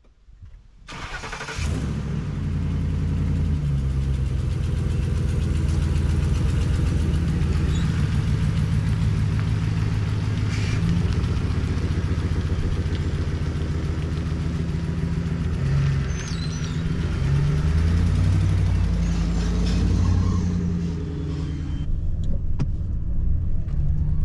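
Pickup truck being driven, its engine running steadily with the pitch drifting up and down, over road noise. It fades in about a second or two in.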